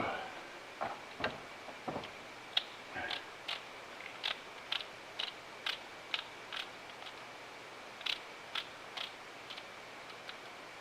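A run of light clicks and taps from hand tools working on the engine: a few knocks in the first two seconds, then sharp clicks about two a second that die away near the end.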